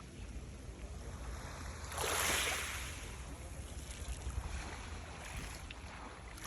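Sea waves washing in, one louder wave surging about two seconds in and then fading, over a steady low rumble of wind on the microphone.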